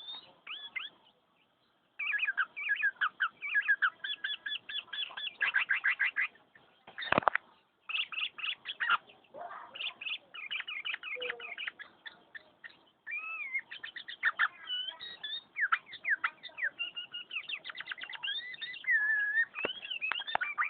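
Sooty-headed bulbul (kutilang) singing continuously in fast runs of chirps and rapidly repeated notes, with brief pauses between phrases. A single knock about seven seconds in.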